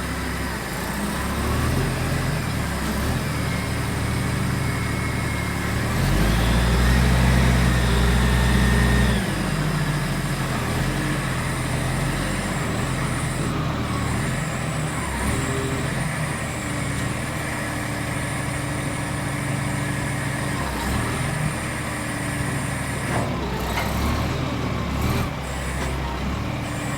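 Heavy diesel engine running, with its pitch shifting up and down. It grows louder for about three seconds a quarter of the way in, then settles back.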